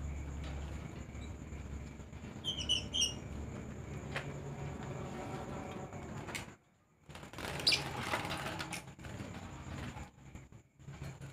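Caged lovebirds giving short, high chirps a few times, about two to three seconds in and again near eight seconds, over a low steady hum.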